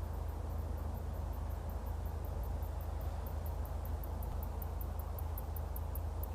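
Steady low outdoor rumble and hiss, with a faint, very high-pitched ticking about four to five times a second.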